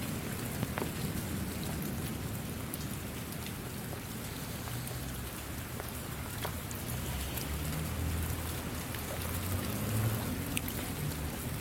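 Steady rain falling, a constant hiss with scattered single drops ticking through it, and a low rumble in the second half.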